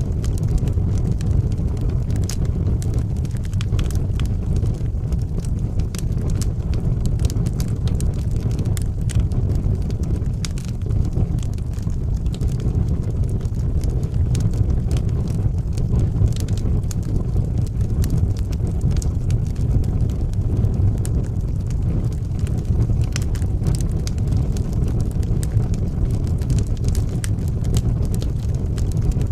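Wood fire burning in a fireplace: a steady low rumble of flame with many sharp, irregular crackles and pops throughout.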